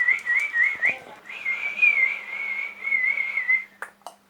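Whistling near one pitch: a run of quick rising chirps, a brief break about a second in, then a longer wavering whistle that stops near the end.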